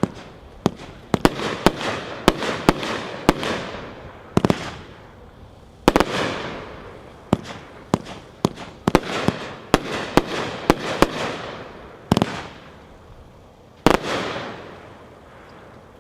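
Magnus 'Ice Cold Beer' fireworks cake firing its shots in an irregular run of sharp bangs, each followed by a fading tail. The last shot comes near the end, and the sound dies away after it.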